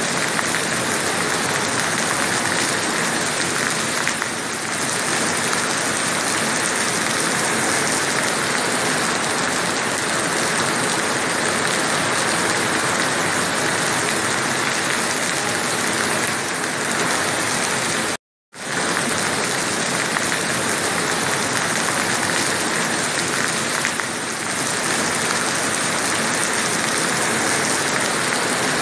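Heavy rain falling steadily as an even hiss. The sound drops out completely for a moment about two-thirds of the way through, then resumes unchanged.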